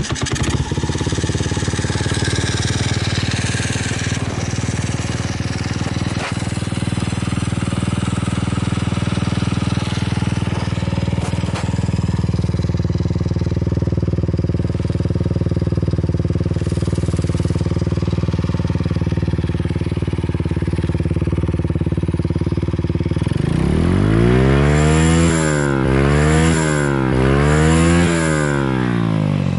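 A Honda Solo AC17's small single-cylinder four-stroke engine, breathing through an aftermarket full exhaust, starts up and settles into a steady idle. Near the end it is revved three times and drops back to idle each time, with no abnormal noises.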